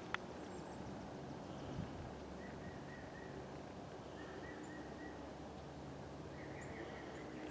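Steady outdoor noise with faint, scattered bird chirps, and a sharp click just after the start.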